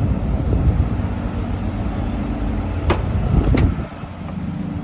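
Semi truck's diesel engine idling steadily, with two sharp clicks about three and three and a half seconds in; the engine sound drops a little in level just after them.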